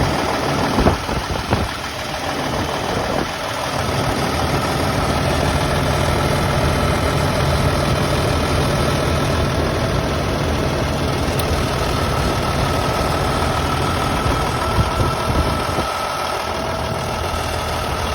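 Freightliner FLD semi-truck's diesel engine idling steadily, after a few knocks in the first couple of seconds. A faint steady whine joins about twelve seconds in.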